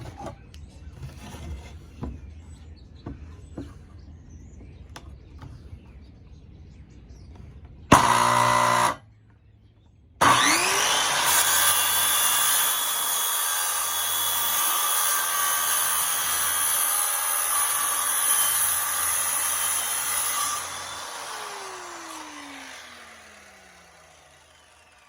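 Power saw cutting through a wooden board along a traced line. After some light handling clicks it starts with a short one-second burst and stops, then starts again with a rising whine and runs steadily through the cut for about ten seconds. The motor then winds down with a falling pitch and fades out.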